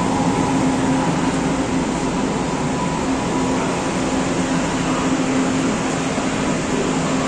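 Frankfurt S-Bahn electric multiple unit running past along the platform of an underground station: a steady rumble of wheels on rail with a low, even hum.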